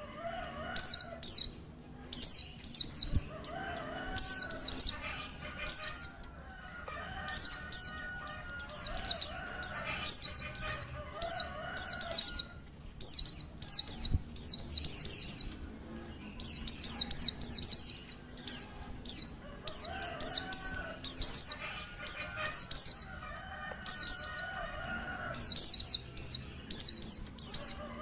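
Female white-eye (pleci) calling: quick clusters of high, thin, falling chirps, several notes to a cluster, repeated about once a second.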